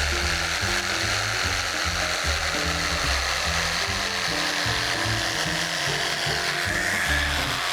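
A handheld power cutter buzzing as it trims and shapes upholstery seat foam, under background music with a stepping bass line.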